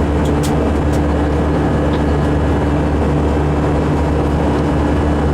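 Steady cabin noise of an Airbus A319 airliner in flight: engine and airflow rumble with a constant low hum, plus a few faint clicks about half a second in.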